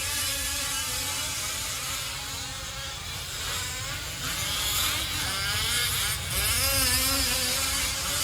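Several 1/5-scale RC off-road trucks' small two-stroke gas engines racing, their pitch rising and falling repeatedly as the trucks throttle up and back off through the track sections.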